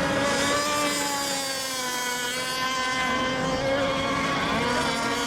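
Several radio-controlled racing boats' engines running together on the water as the boats mill before the start of a heat, their overlapping pitches wavering slightly.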